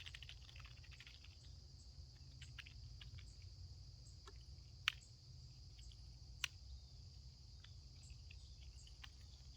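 Faint outdoor insect trilling: a steady, high, even drone over a low rumble. Scattered faint ticks run through it, with two sharper clicks about halfway through.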